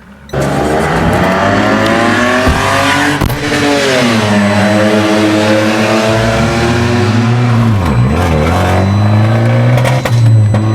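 Car engine running loudly, starting abruptly, its pitch sliding down and then holding, with two brief dips in revs late on.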